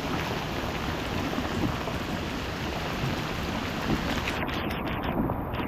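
Heavy rain falling steadily on the water and the kayak, a constant hiss.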